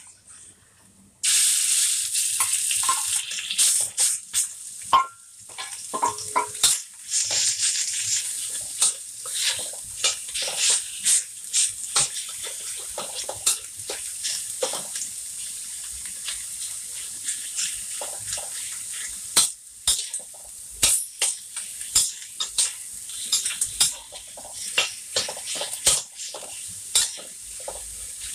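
Minced pork dropped into hot oil in a stainless steel wok, starting to sizzle loudly and suddenly about a second in, then frying steadily. Throughout, a metal ladle scrapes and clicks against the wok as the meat is stirred and broken up.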